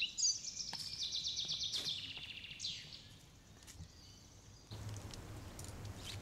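Birdsong: a fast trill of high chirps for the first two seconds or so, then fainter calls. A low steady hum comes in about three-quarters of the way through.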